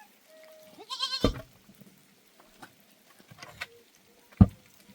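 One short, wavering bleat from a sheep or goat of the flock about a second in, ending in a sharp knock. A second, louder sharp knock comes about four and a half seconds in.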